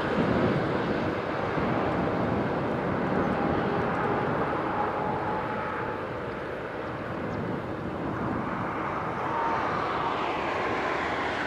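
Jet engine noise from an Airbus A300-600ST Beluga as it lands: a steady, wide rushing sound with a faint whine in it. It eases slightly midway and swells again near the end.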